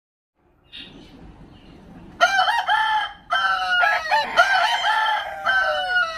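Rooster crowing: one long crow of drawn-out notes starting about two seconds in, with a short break about a second later, ending on a falling note.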